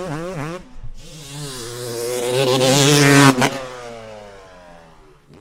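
Motocross bike engine revving in quick blips, then climbing in pitch and getting louder, with a sharp crack about three seconds in, then dropping in pitch and fading away.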